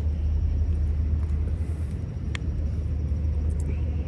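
Steady low rumble of wind buffeting the microphone, with road noise, while riding an e-bike on fat tyres; a single short click about two seconds in.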